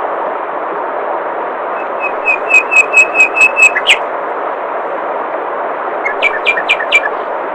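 Steady rush of flowing water, with a songbird giving two runs of quick repeated whistled notes, the first about two seconds in and a shorter one near the end; the bird notes are the loudest sounds.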